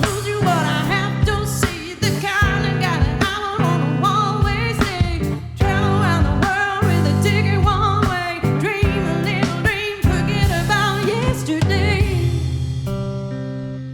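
Live pop song: a singer's voice over band accompaniment with guitar and a steady beat. Near the end the music thins out and falls away to a few held, ringing notes.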